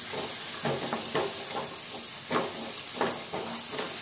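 Green peas and wet ground spices sizzling and hissing in oil and a splash of water in a nonstick kadhai. A wooden spatula scrapes and stirs them in repeated strokes about every half second.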